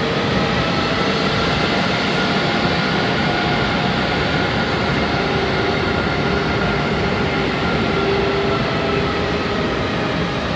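Airbus A320's jet engines running: a steady, loud rush of noise with faint, slightly drifting whining tones above it.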